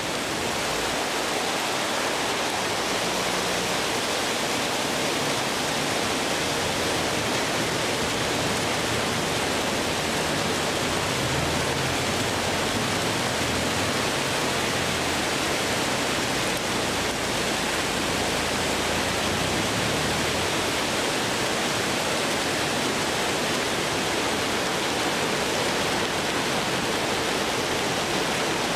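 Hail and rain falling hard: a steady, dense hiss that does not let up.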